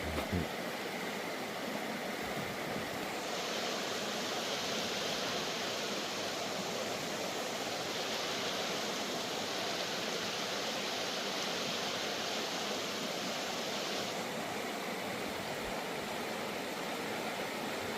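Tumalo Creek's water rushing steadily over its rocks.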